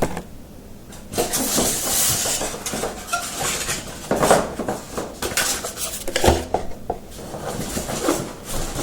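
Unboxed items and packaging being handled by hand: irregular rustling broken by knocks and clinks, the loudest knock about six seconds in.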